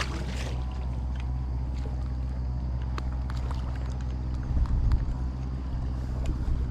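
Steady low engine hum, with gusts of wind buffeting the microphone about four and a half seconds in.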